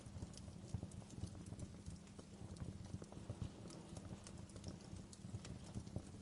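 Wood fire in a fireplace crackling: irregular sharp pops and snaps of burning logs over a steady low rumble of the flames.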